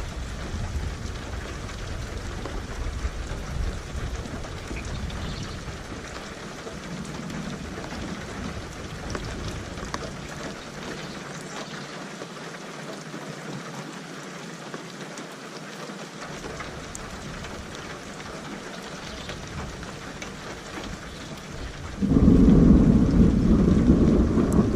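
Steady rain falling, with a low rumble of thunder dying away in the first few seconds. Near the end a loud peal of thunder breaks in suddenly and keeps rumbling.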